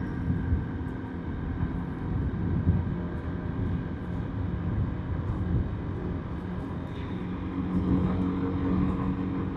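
Motorbike riding along a road: wind buffeting the microphone and road noise, with the steady hum of an engine that grows stronger near the end.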